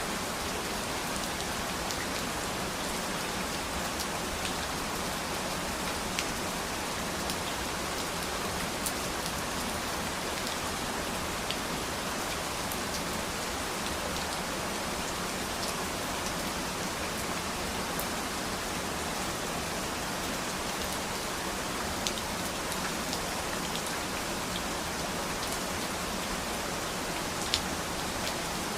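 Steady rain falling, an even hiss, with individual drops ticking on a surface here and there, one louder near the end.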